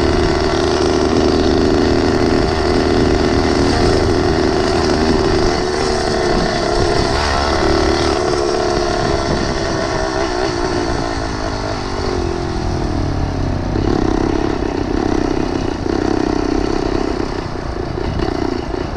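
Small engine of a motorized bicycle running under way, its note steady at first, then easing down in pitch about two-thirds of the way through before settling again.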